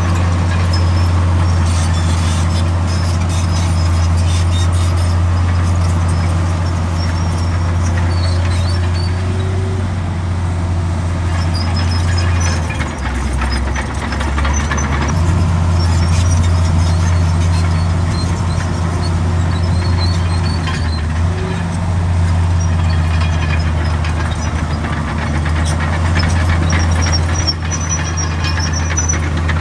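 Heavy diesel engine of earthmoving machinery running steadily under load, its note dipping for a couple of seconds about halfway through. Faint high squeaks come and go above it.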